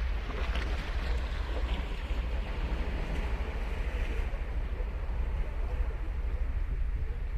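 Ocean surf: a wave breaking and washing up the shore, its hiss swelling early and fading after about four seconds, over a steady low rumble.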